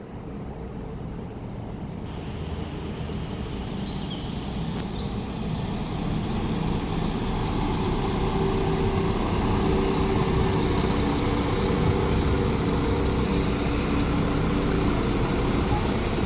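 Diesel train approaching along the line, its engine and wheel noise growing steadily louder, with a steady engine note coming in about halfway through.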